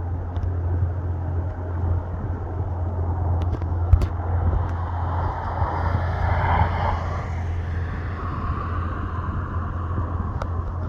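easyJet Airbus A320-family airliner arriving, its jet engine noise swelling to a peak about six to seven seconds in and then fading, over a steady low rumble.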